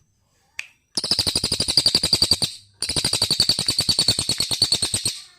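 A songbird singing two long, rapid trills of high, evenly repeated notes, about fifteen a second, with a short break between them; a single sharp click comes just before the first.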